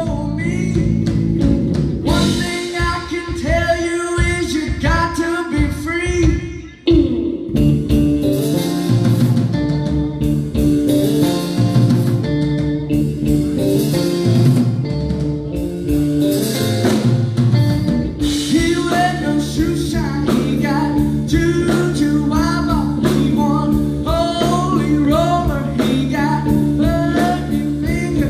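Live band with electric guitar and drum kit playing a bluesy country-rock song, with a male voice singing. The music drops out briefly about six and a half seconds in, then starts again.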